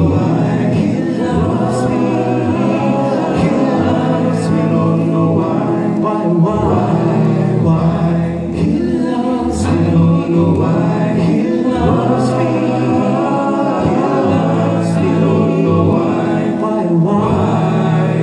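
An a cappella vocal group singing a gospel song in close harmony, without instruments. Voices hold sustained chords over a steady low bass part, with crisp sibilant consonants every second or so.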